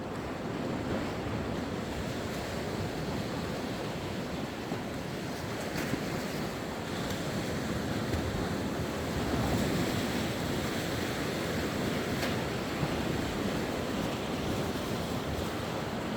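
Sea waves washing onto the shore in a steady wash of surf, swelling a little louder about two-thirds of the way through.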